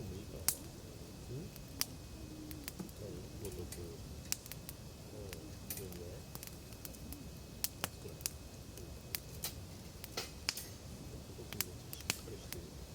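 Wood campfire crackling, with sharp irregular pops from the burning firewood. The loudest pops come about half a second in and near the end.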